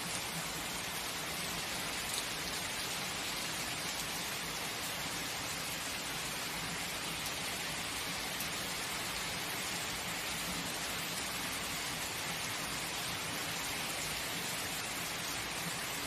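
Steady heavy rainfall, an even hiss of drops with occasional individual drop ticks.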